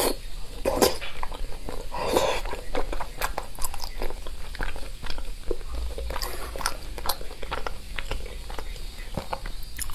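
Close-up mouth sounds of eating soft braised meat: wet chewing, lip smacks and many short sticky clicks, with louder bites about one and two seconds in.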